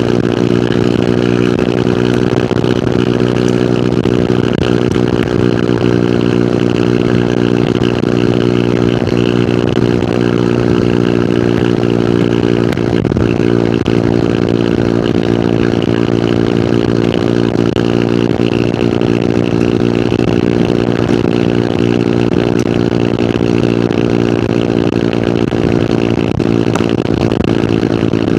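Hero Hunk motorcycle's 150 cc single-cylinder four-stroke engine running at a steady, unchanging pitch while cruising on the road.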